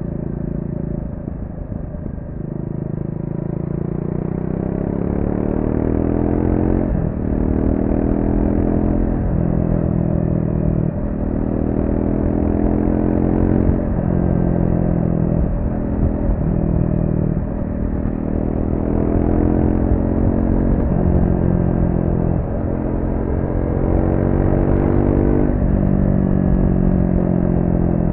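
Triumph Speed 400's 398 cc single-cylinder engine through the stock exhaust, ridden hard. The pitch climbs under throttle and drops sharply again and again, about ten times, as the bike pulls through the gears and corners.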